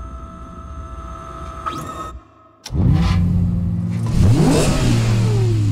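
A steady ringing tone, then a short silence, then the Lexus LFA's 4.8-litre V10 starts with a sharp flare. It revs once more, with the pitch climbing and falling away, and drops to a steady idle near the end.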